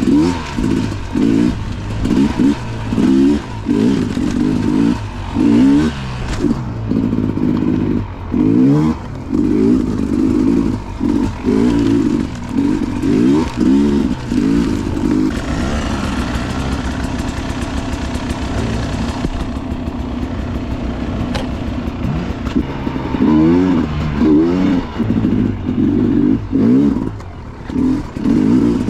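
Dirt bike engine revving up and down with quick, repeated throttle changes while riding off-road. It runs more steadily for several seconds midway, then goes back to rapid revving.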